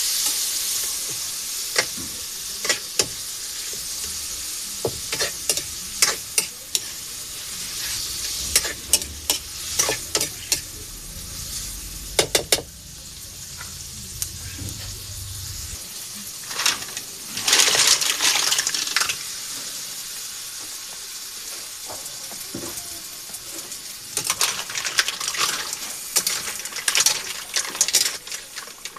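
Food sizzling in a hot pan while a utensil stirs and clinks against it in sharp taps. The sizzle fades gradually, then flares up louder for a couple of seconds about two-thirds of the way through.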